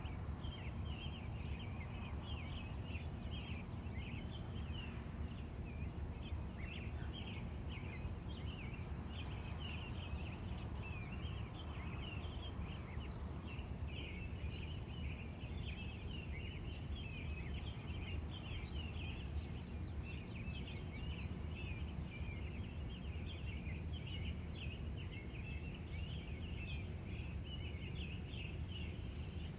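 Early-morning chorus of wild birds giving many short chirps, one over another, with a steady high insect trill running under them and a low steady rumble beneath.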